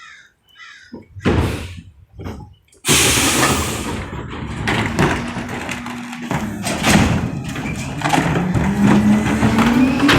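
A few knocks and thumps, then about three seconds in a sudden loud crash with a hiss, followed by steady crunching and clatter as heavy trash is handled at a Pak-Mor rear-loading garbage truck. Near the end the truck's engine revs up, rising in pitch, as the packer works the load.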